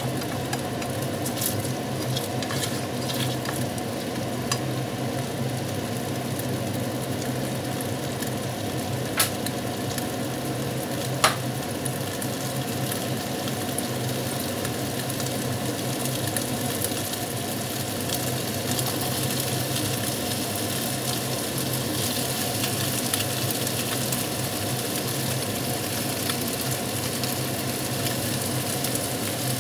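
Carrots and sauce sizzling steadily in a saucepan on the stove, stirred with a slotted spatula at the start, over a steady low hum; two sharp clicks near the middle.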